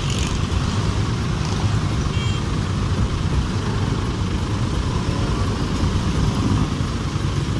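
Steady wind noise rushing over a helmet's chin-mounted earphone microphone while riding a motorcycle in traffic, with the engine and road noise underneath.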